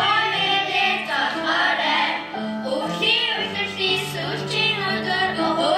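Students singing a song over instrumental accompaniment with held low notes.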